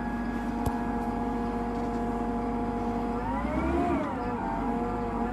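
Challenger tractor's diesel engine running steadily, heard from inside the closed cab, with one brief rev up and back down about three seconds in.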